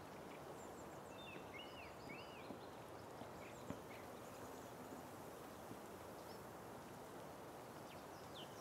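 Faint garden ambience: a few short bird chirps over a low, steady outdoor hiss. The chirps come mostly in the first half and again near the end.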